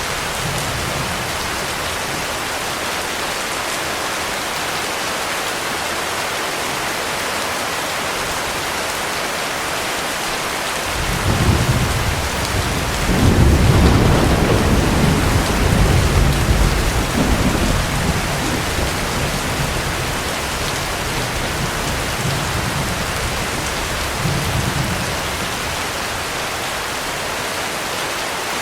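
Heavy rain falling steadily. A rolling rumble of thunder builds about eleven seconds in, peaks a few seconds later and dies away over roughly ten seconds.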